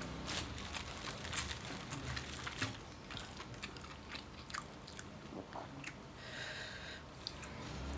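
A person chewing and biting a mouthful of rice and chicken close to the microphone, with many wet mouth clicks. A low rumble of road traffic sits underneath, and there is a brief hiss about six seconds in.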